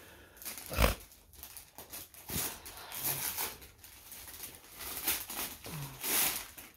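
Gift wrapping paper rustling and tearing in short irregular bursts as a present is opened, with a sharp thump a little under a second in.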